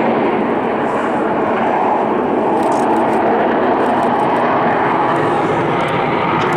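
Eurofighter Typhoon's twin EJ200 jet engines in full reheat, a loud, steady roar as the jet powers away from slow flight.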